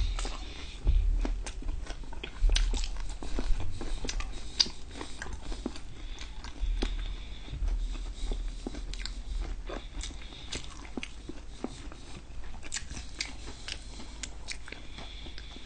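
Close-miked chewing and mouth sounds from people eating, with many small wet clicks and some crunching. A few low thuds come in the first half.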